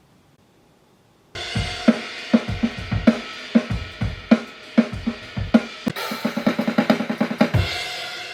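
A drum kit playing a beat, with kick, snare and cymbals. It starts suddenly about a second and a half in, after a quiet pause.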